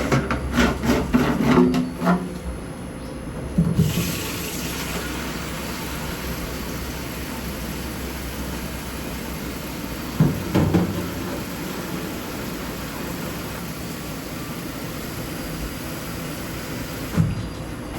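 Mountain stream running steadily, an even rush of flowing water. A few knocks and clatters come in the first two seconds, with single knocks about ten seconds in and near the end.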